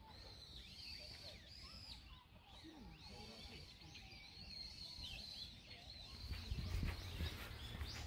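Faint small birds calling with repeated high chirps and twitters throughout. A low rumble comes in about six seconds in.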